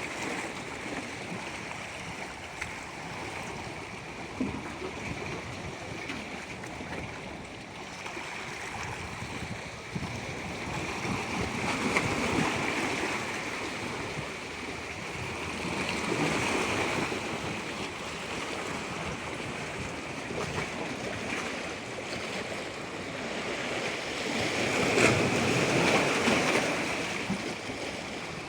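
Waves washing in, a steady rush of water that swells louder three times, with the biggest surge near the end.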